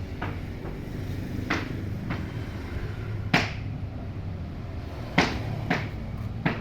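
Sharp wooden knocks of sawn meranti boards being handled, about seven at uneven intervals, the loudest a little past three seconds and just after five seconds in, over a steady low engine hum.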